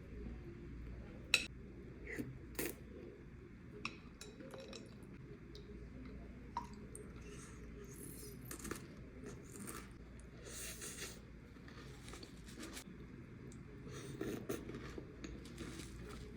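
Close-miked eating of Oreo cookies: scattered sharp clicks and taps, with a few short crunchy stretches of chewing.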